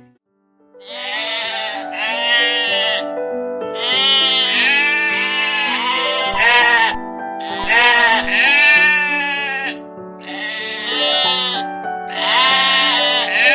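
Sheep bleating over background music with held notes. After a moment's silence, a string of quavering bleats follows one after another, about one a second.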